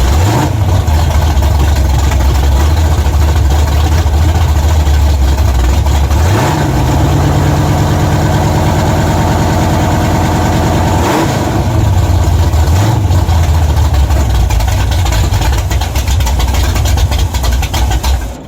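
Pontiac Catalina's stroker V8 running just after a cold start, loud and steady. About six seconds in the revs rise and hold for about five seconds before dropping back to idle, with a brief blip of the throttle a couple of seconds later.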